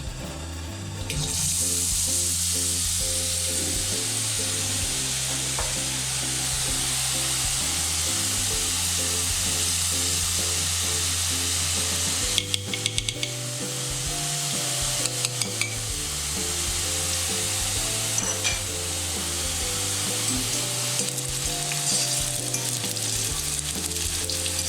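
Gram-flour (besan) batter dropping into hot oil and frying into boondi. The steady, loud sizzle starts about a second in, and clusters of sharp clicks come from about halfway on.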